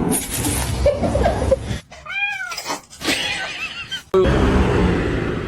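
A domestic cat meowing: a clear meow that rises then falls in pitch about two seconds in, and a fainter one a second later.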